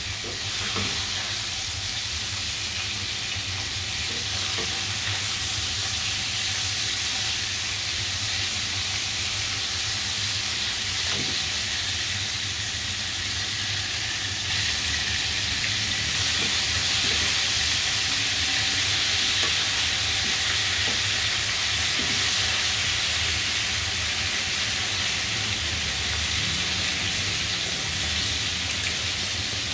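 Chicken pieces frying in hot oil in a pan: a steady, dense sizzle that grows a little louder about halfway through.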